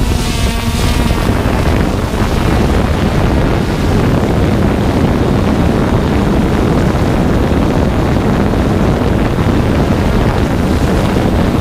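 Wind buffeting the microphone in a steady low rushing roar, with the Hubsan X4 Pro quadcopter's rotors buzzing faintly underneath.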